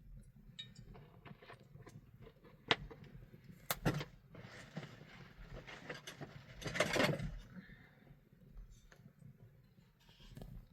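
Handling noises: a series of sharp clicks and knocks, with a louder rustling scrape about seven seconds in, over a low steady rumble.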